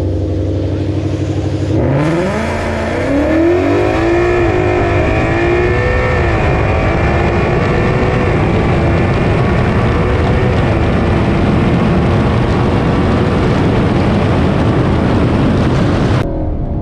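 Ford Mustang GT's 5.0 V8 with a full exhaust under hard acceleration. It rises sharply in pitch about two seconds in, wavers for a few seconds, then holds high revs until an abrupt cut near the end.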